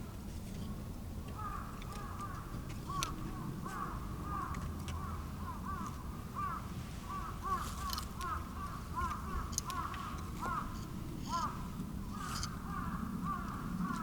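A flock of birds calling: many short rising-and-falling calls repeat rapidly and overlap, starting about a second and a half in. A few sharp clicks and a low steady rumble run underneath.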